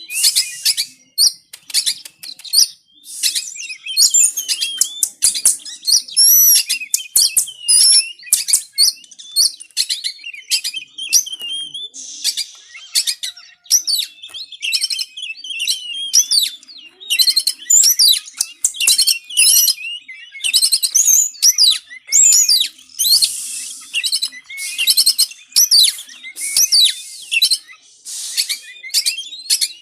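Oriental magpie-robin (kacer) singing in a fired-up, aggressive way: a nonstop stream of rapid, varied whistles, sweeping notes and harsh chatter.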